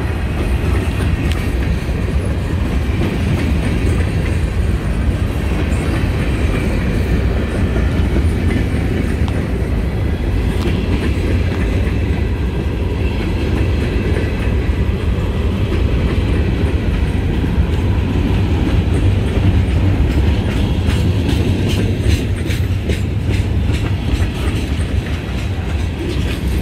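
Freight train cars rolling past close by: a loud, steady low rumble of steel wheels on rail, with wheel clicks over the rail joints that come thicker near the end.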